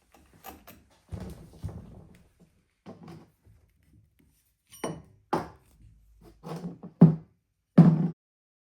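A series of separate knocks and thunks, like tools and bike parts being handled and set down on a workbench. They come sparsely at first, then louder from about five seconds in, and the last two, about seven and eight seconds in, are the heaviest.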